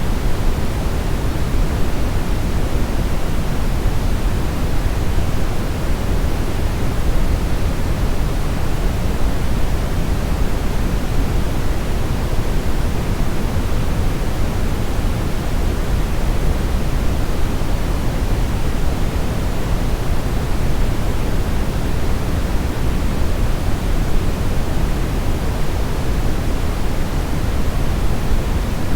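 Synthetic brown noise: a steady, even rumbling hiss, strongest in the low end and thinning toward the treble, with no changes.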